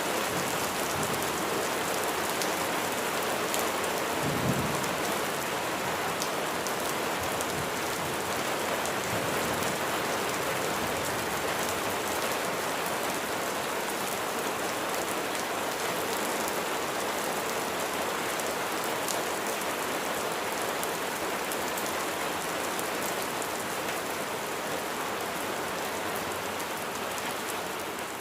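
Steady heavy rain falling and spattering on surfaces, with a brief low rumble of thunder about four seconds in.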